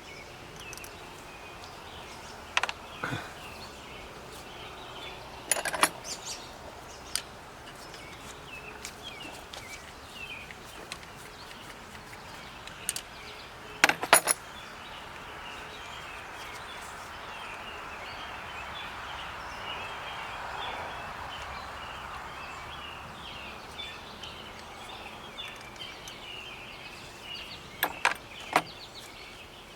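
Scattered sharp metallic clicks and taps of a screwdriver and screws working on a diesel engine's mechanical fuel lift pump, the loudest pair about halfway through. Birds chirp steadily behind them.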